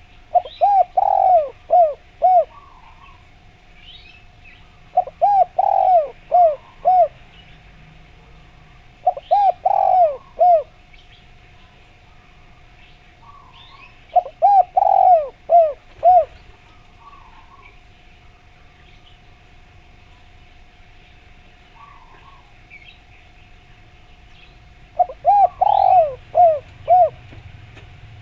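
Spotted dove (tekukur) cooing in five repeated phrases, each a quick run of four to six coos, with faint chirps of other small birds in between.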